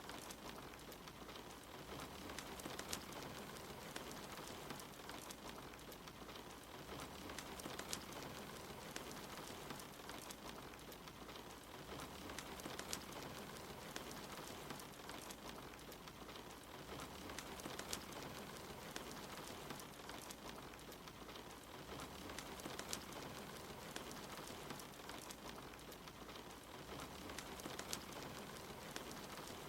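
Steady rain hiss mixed with a crackling wood fire: a constant wash of rainfall with many small crackles and occasional louder pops from the fire.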